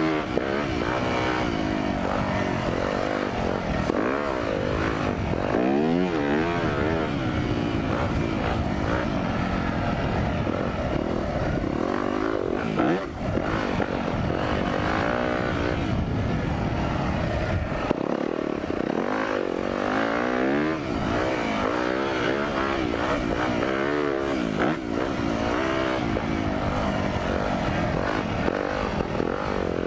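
Single-cylinder four-stroke motocross bike engine being ridden hard, its pitch rising and falling over and over as the throttle is worked through gears and corners.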